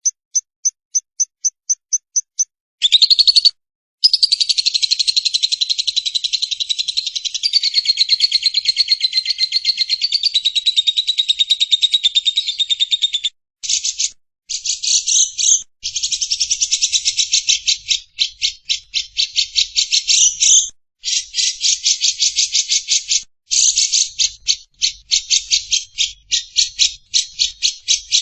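Lovebird giving its long 'ngekek' chatter: very rapid, high-pitched trilling. It is preceded by a string of short repeated notes, runs unbroken for about ten seconds, then continues in bursts with short breaks.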